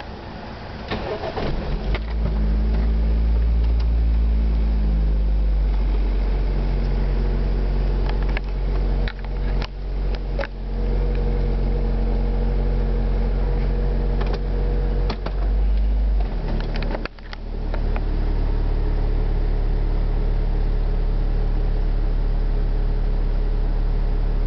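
Car engine starting and then idling steadily, heard from inside the cabin, with scattered knocks. About two-thirds of the way through the engine note dips briefly and settles at a changed pitch.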